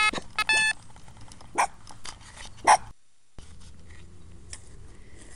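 A metal detector beeping in short tones for under a second, then a small dog giving two short, sharp barks about a second apart.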